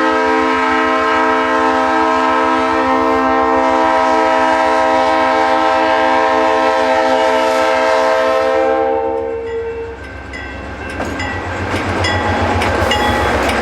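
A locomotive sounds one long, steady chord of several notes for about nine seconds over a low rumble. After the blast stops, the rumble and rail noise of the train pulling away grow louder.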